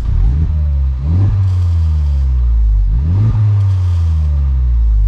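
2021 Honda Civic Type R's 2.0-litre turbocharged four-cylinder on the stock mufflers, heard from inside the cabin while driving. The engine note climbs quickly three times, near the start, about a second in and about three seconds in, and falls off more slowly after each.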